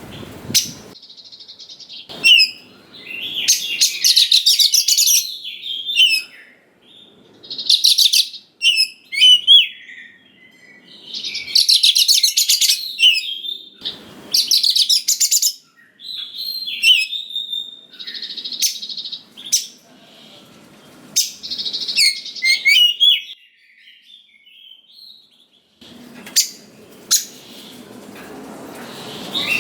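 Oriental magpie-robin (kacer) singing in full voice: loud phrases of rapid, varied whistles and chattering notes, each a second or two long, broken by short pauses.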